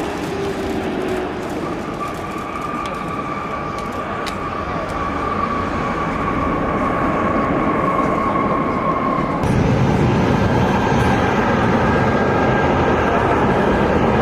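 Jet airliner engines running loud, a steady rushing noise with a faint whine slowly falling in pitch. About two-thirds of the way in it cuts abruptly to another stretch of jet engine noise with a deeper rumble.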